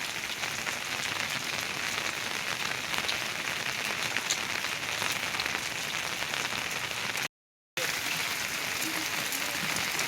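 Heavy rain falling steadily, a dense even patter of drops, cutting out completely for about half a second near the seven-second mark.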